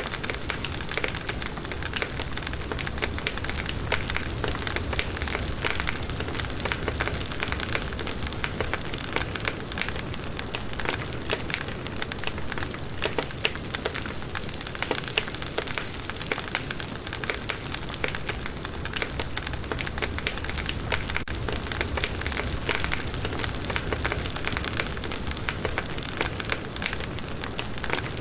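Firewood burning in a campfire, with dense, continuous crackling and many small pops over a steady hiss.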